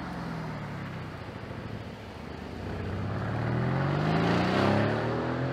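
Mercedes-AMG GLC 63's twin-turbo V8 engine accelerating hard, its note rising steadily in pitch and growing louder from about two seconds in after a steadier stretch.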